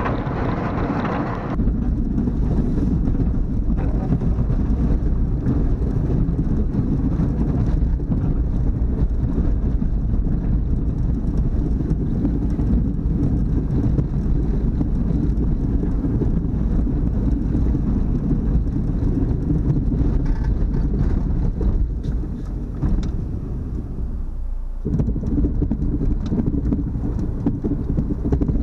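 Dodge Neon plow car's engine running steadily under load while plowing snow, a dense low-pitched drone. The sound changes abruptly about a second and a half in and dips briefly near the end.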